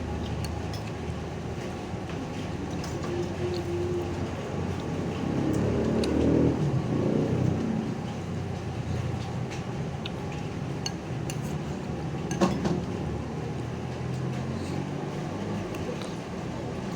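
Steady low rumble of vehicle engines in a bus terminal, swelling for a few seconds near the middle, with scattered light clicks and one sharp knock a little past the middle.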